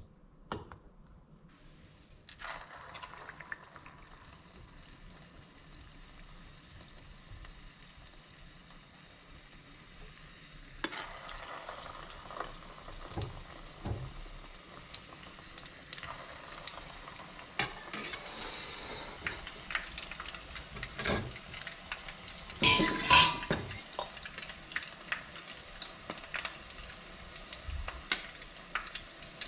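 Egg-coated cauliflower florets sizzling in hot oil in a small frying pan. The sizzle starts a few seconds in and grows louder about a third of the way through. A fork clicks and scrapes against a metal mixing bowl throughout, with a louder ringing clatter about three-quarters of the way through.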